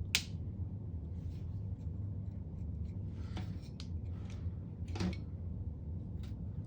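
Small clicks and scrapes of a pick and trim tool prying at the plastic locking tabs of a wiring-harness connector: a few sharp ticks, the loudest near the start and about three and five seconds in, over a steady low hum.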